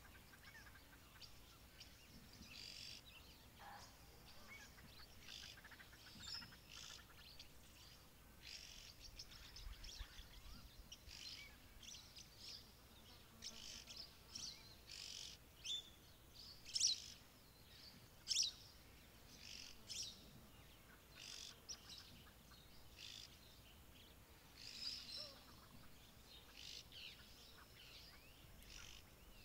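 Wild birds calling: many short, high chirps and whistles repeating irregularly over a quiet background, with a few sharper, louder calls about halfway through.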